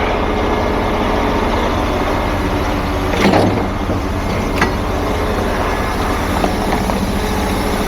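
Heavy truck engine idling steadily, with a brief clatter about three seconds in and a sharp click a little later.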